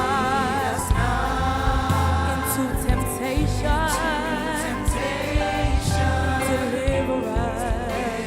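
Gospel worship music: singers hold long notes with vibrato over a live band with bass and drums.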